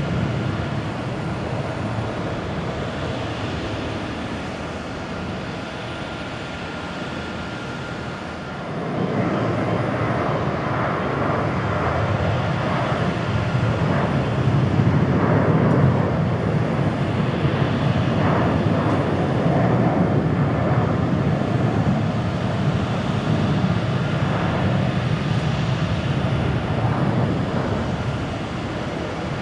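Boeing 737-800 CFM56-7B jet engines at takeoff thrust: a steady rumble and roar that fades slightly, then jumps abruptly louder about a third of the way in as a second 737-800's takeoff begins.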